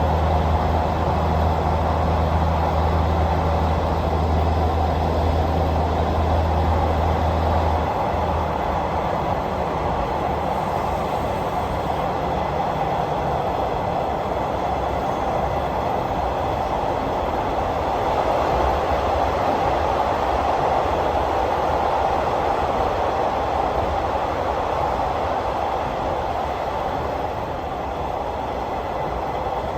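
Passenger train running along the rails, heard from on board as a continuous rumble. A low steady hum underneath stops about eight seconds in.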